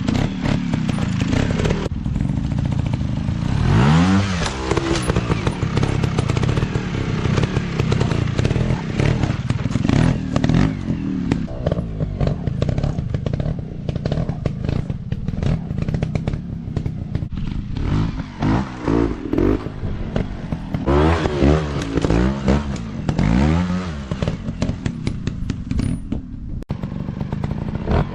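Off-road motorcycle engine revving up and down again and again, with a run of quick rises and falls late on, among clattering knocks.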